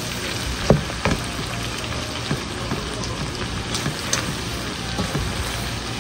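Macaroni stir-fry sizzling in the pan as it is mixed, with a steady frying hiss and a few sharp clicks of the spoon against the pan.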